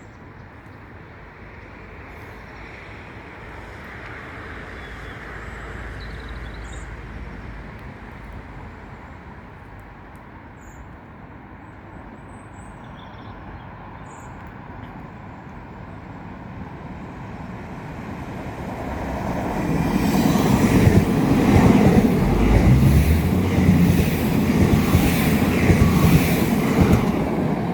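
Irish Rail 22000 Class InterCity Railcar (ICR) diesel multiple unit approaching and running through the station without stopping. A distant rumble builds slowly, then from about twenty seconds in comes the loud noise of the train passing at speed, with a rapid clatter of wheels.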